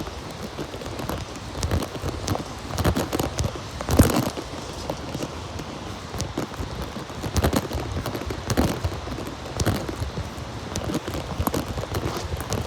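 Footsteps on wet pavement in the rain, uneven steps about once or twice a second, over a steady hiss of rain.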